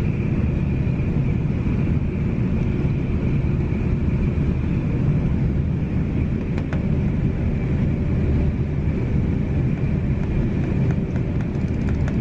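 Passenger train running at about 100 mph, heard from inside the carriage: a steady low rumble with a faint steady high whine, and a few light clicks near the end.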